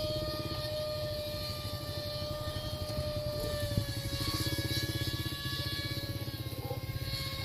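Electric motor and propeller of an RC Icon A5 model seaplane whining steadily, the pitch drifting slightly lower, over a low pulsing rumble.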